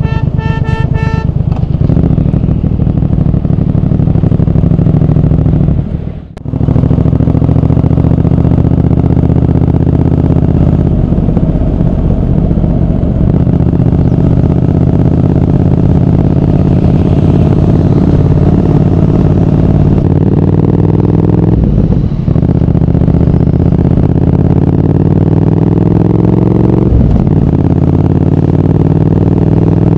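Triumph Speed Twin 1200's parallel-twin engine pulling hard under way, its pitch climbing through the gears with a brief drop at each upshift, about six seconds in and twice more near the end. A vehicle horn sounds in short blasts at the very start.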